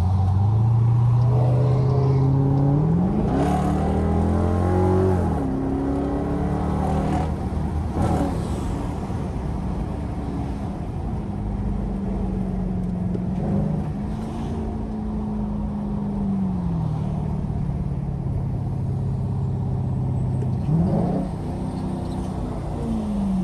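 Straight-piped Dodge Durango exhaust pulling away and cruising. Its note rises in pitch as it accelerates, drops at shifts around three and five seconds, then holds steady with brief rises and falls near the end.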